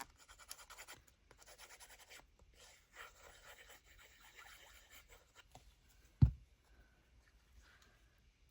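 Paper tabs and card being handled and pressed into place: soft, scratchy rustling and rubbing of paper, with one short thump about six seconds in.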